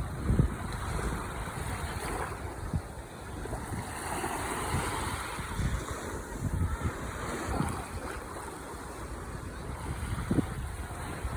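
Ocean waves breaking and washing on the shore, a wash swelling about four seconds in, with wind buffeting the microphone in low thumps.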